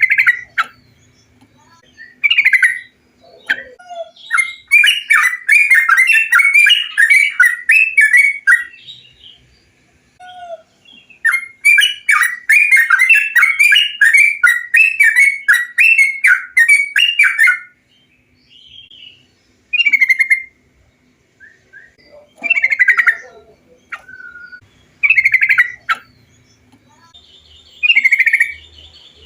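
Yellow-vented bulbul (trucukan) singing: short, bright, bubbling phrases, with two long runs of rapid repeated notes, one after about four seconds and one from about twelve to seventeen seconds, then separate short phrases every two or three seconds near the end.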